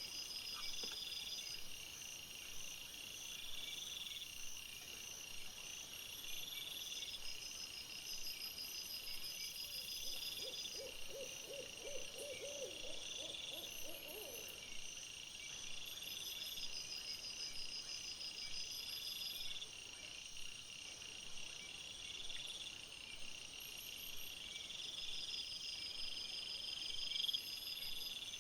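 Night-time outdoor animal sounds. A steady chorus of high chirps repeats about every two seconds, and midway one low, rapidly pulsed trilling call lasts about four seconds.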